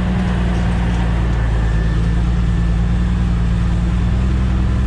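Truck engine running steadily under load as the truck creeps up a gravel road, with a constant low drone and a rough noise of tyres on gravel above it.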